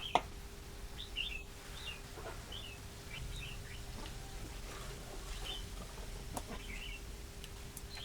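Small birds chirping: short, quick high chirps scattered throughout, over a faint steady hum, with a sharp click right at the start.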